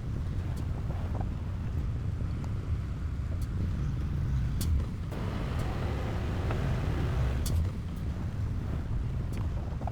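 Heavy diesel earthmoving machinery running with a steady low rumble, with a few sharp metallic clanks scattered through it.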